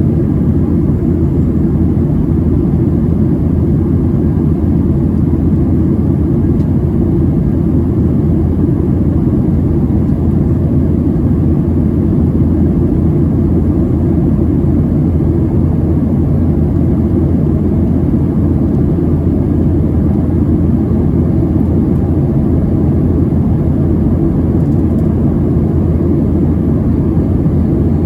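Steady low rumble inside the cabin of a Boeing 737-700 in its climb: the CFM56-7B turbofan engines and the airflow over the fuselage make an even drone, with no changes or distinct events.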